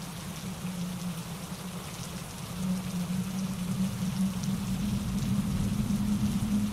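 Steady rain mixed with the rush of a mountain stream tumbling over rocks, a continuous hiss over a low rumble. The rumble grows louder about two and a half seconds in.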